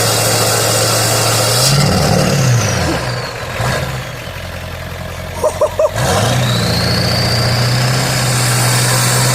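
Straight-piped 7.3L Powerstroke V8 diesel of a 1997 Ford F-350, cold and on bad injectors, running, then revved once near two seconds in. It drops back and goes quieter while the turbo whistle falls away. After three short blips it picks up again with the turbo whistle rising, then runs steadily.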